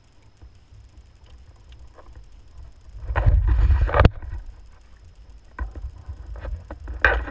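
Small boat on the water: water sounds and knocks against the hull, with a loud rush lasting about a second three seconds in that ends on a sharp knock, and another short burst near the end.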